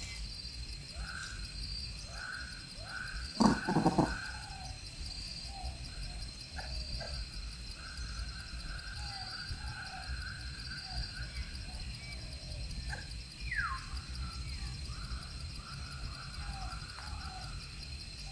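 Animal calls: a steady high pulsing trill with many short chirps and croaks scattered over it, and a louder call about three and a half seconds in.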